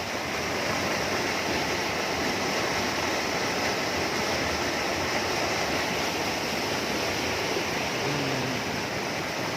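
Heavy rain pouring down steadily: a continuous, even hiss of falling and running water.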